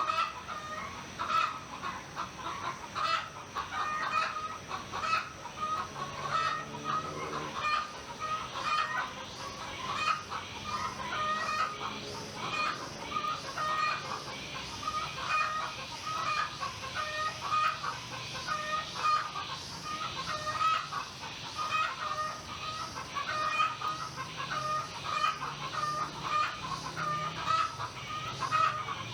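Chickens clucking and a rooster crowing, over continuous dense chirping of small birds.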